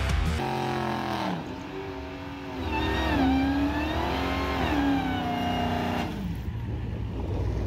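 Supercharged 6.2-litre Hemi V8 of a Dodge Charger Hellcat Redeye revving hard through a burnout while the rear tyres spin. Its pitch rises and falls as the revs waver, then drops off about six seconds in.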